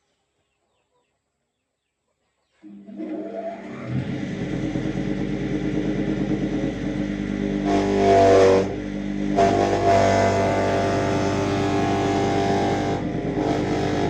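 An engine running steadily, cutting in suddenly after about two and a half seconds of silence, with a brief rise in level about eight seconds in.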